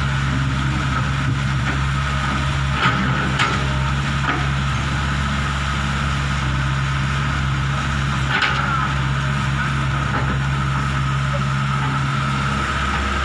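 Hitachi 120 excavator's diesel engine running steadily, with a constant high whine over the low hum. A few sharp knocks sound, two about three seconds in and one past eight seconds.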